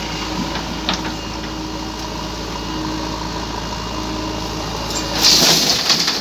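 JCB backhoe loader engine running steadily, with a louder rushing noise breaking in about five seconds in.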